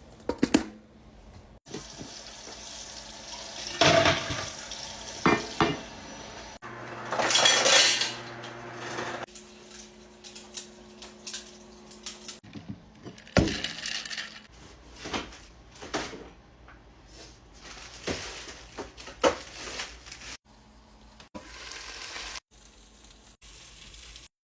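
Dishes and cutlery clinking and clattering in a string of separate knocks and chinks, with a stretch of steady hissing noise from about seven to nine seconds in.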